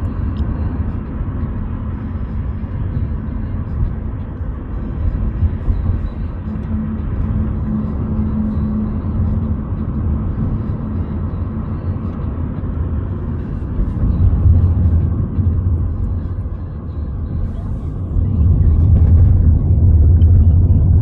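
Road and engine noise inside a moving car's cabin: a steady low rumble that swells briefly around the middle and grows louder near the end.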